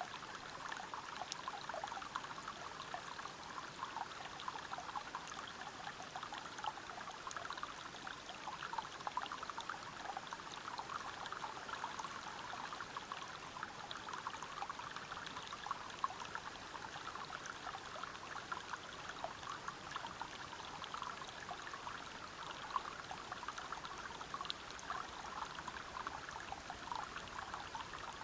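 Waterfall and river water flowing and splashing over rocks: a steady, even rush made of many small splashes.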